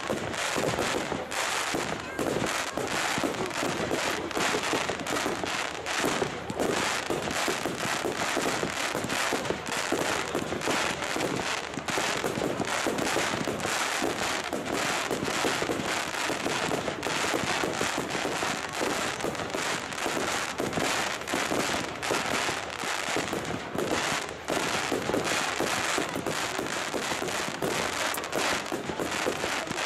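Fireworks going off in a fast, unbroken barrage of bangs and crackling as aerial shells burst one after another.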